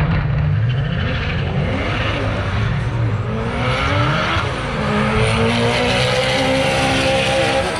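Car engine revving hard, its pitch swooping up and down several times, then climbing steadily as it accelerates.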